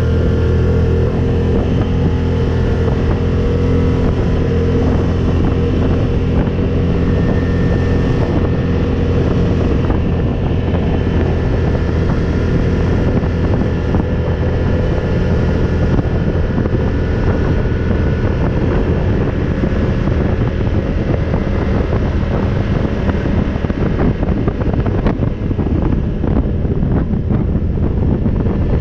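ATV engine running at a steady pace while riding, with wind buffeting the microphone and frequent short knocks and rattles.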